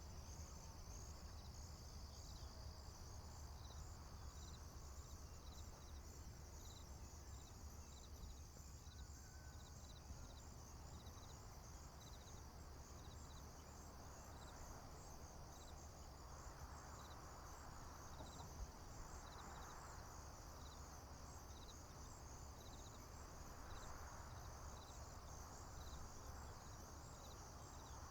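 Faint insect chorus of crickets in a field: a steady high trill with a regular repeated chirp, over a low steady rumble, with a few soft swells of rushing noise in the second half.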